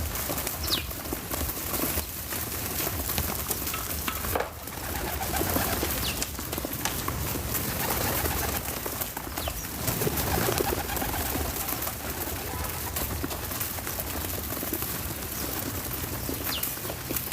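Doves cooing, with a few brief high bird chirps over a steady background hiss.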